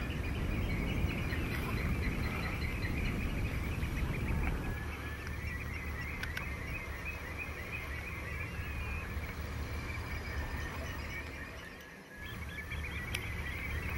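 Outdoor ambience of wind rumbling on the microphone, with many distant birds calling throughout. The sound briefly drops away about three-quarters of the way through, then resumes.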